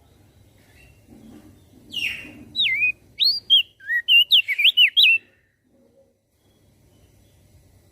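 Crested white-eye (opior jambul) singing: a quick run of clear, swooping whistled notes starting about two seconds in and lasting about three seconds.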